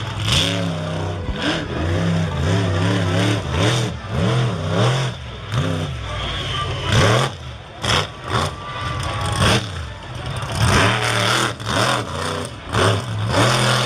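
Monster truck engine revving up and down over and over, with several sharp bangs in the second half.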